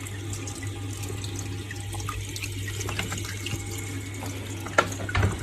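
Water running steadily, as from a tap into a sink, over a low steady hum, with a couple of sharp clicks near the end.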